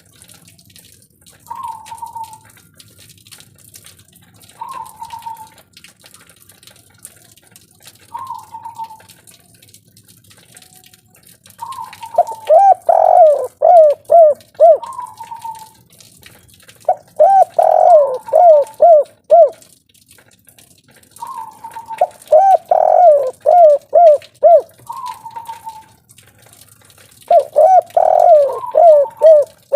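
Spotted dove (tekukur, 'kuk 3' type) cooing. A short single note comes every few seconds, and from about twelve seconds in there are four loud phrases of quick, rolling coo notes, about five seconds apart.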